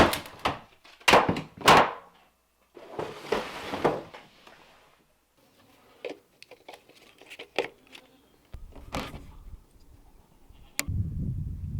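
A series of sharp knocks and thuds, four loud ones in the first two seconds, followed by a brief rushing noise and scattered lighter clicks. A low steady rumble starts near the end.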